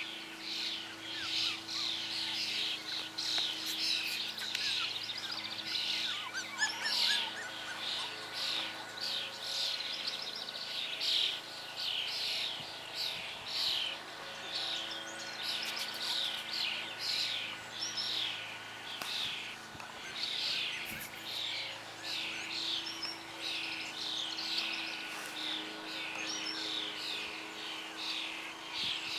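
Birds chirping outdoors, a steady stream of short high calls several times a second.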